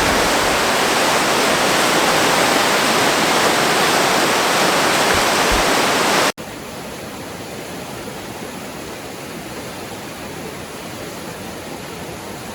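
Rushing water of a fast-flowing, swollen river and its falls: a steady, loud rush. Halfway through it cuts abruptly to a quieter, more distant rush.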